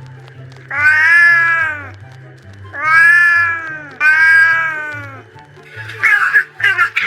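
Three long, drawn-out cat meows, each rising then falling in pitch, over background music with a stepping bass line. About six seconds in, a quick run of short, choppy sounds begins.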